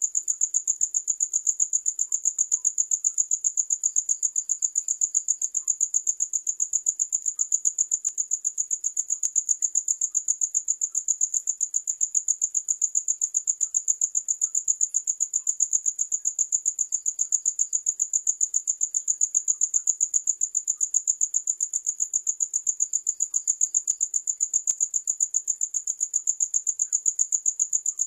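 Cricket chirping: a high-pitched, steady trill of rapid, evenly spaced chirps, several a second, with a fainter, lower chirping joining in now and then.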